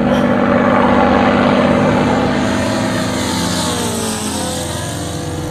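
ASP FS400AR five-cylinder four-stroke glow radial engine of an RC model aircraft running under power with its propeller, steady at first, then dropping in pitch over the second half.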